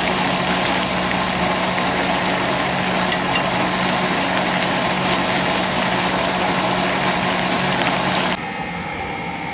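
A workshop machine running steadily: a constant low hum under a dense hiss, with a few light clicks about three seconds in. It drops suddenly to a quieter background near the end.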